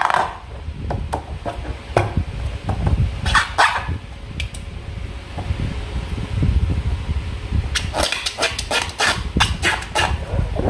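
Slime being squished and worked by hand: runs of sticky, wet clicks and pops over a low handling rumble, with the busiest run near the end.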